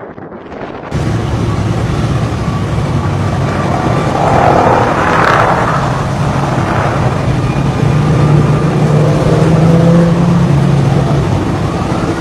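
Aircraft engine running loud and steady with heavy wind rush, starting abruptly about a second in and swelling briefly around the middle.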